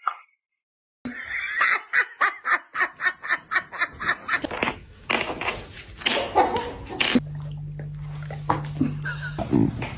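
A person laughing hard in quick repeated bursts, about five a second, starting about a second in and loosening after a few seconds. Later a low steady hum runs for about two seconds.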